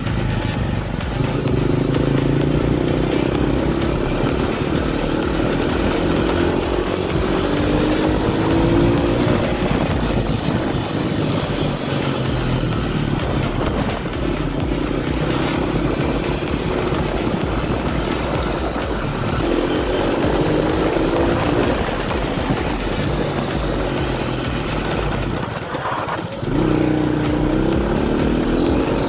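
Honda Dream 100's small single-cylinder four-stroke engine running while the bike is ridden, its pitch climbing again and again as it accelerates through the gears, over a steady rush of wind. Near the end the engine sound drops away briefly, then picks up and climbs once more.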